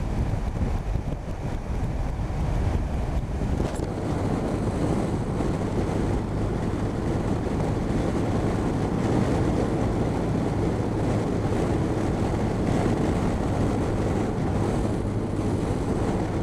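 Steady wind rush on the microphone of a moving motorcycle, over the low, even hum of its engine at cruising speed.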